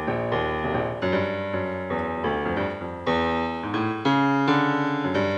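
Piano playing the introduction to a slow song, with chords struck in a steady pulse about twice a second and a louder chord about four seconds in.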